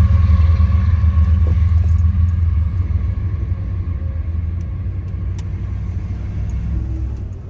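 Empty coal cars of a fast BNSF freight train rolling past on the rails: a steady low rumble with faint high ringing tones at first, gradually fading, then dropping away at the end.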